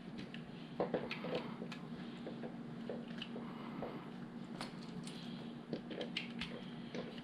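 Scattered light clicks and rattles of small plastic LEGO pieces being handled, sorted and pressed together, over a steady low hum.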